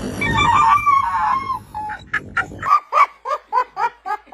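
Animal calls: a wavering pitched cry, then from about two seconds in a run of short, sharp calls repeated about three times a second.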